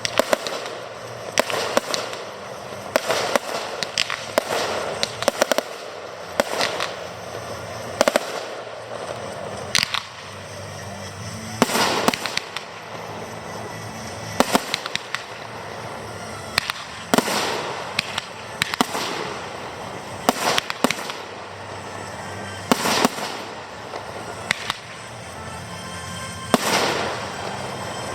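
Fireworks display: aerial shells bursting in a steady run of sharp bangs every second or two, with crackle and echo, over background music.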